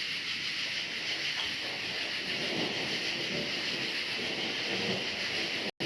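A dense, steady chorus of crickets, a high even shimmer, over rain and a low, rolling thunder rumble. The sound cuts out for an instant near the end.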